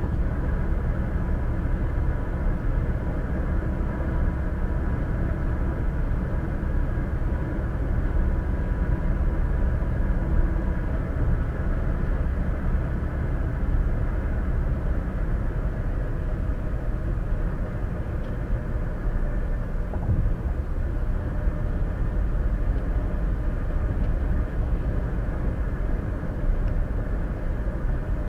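Steady road and engine noise of a car driving at highway speed, heard from inside the cabin through a windshield dash cam.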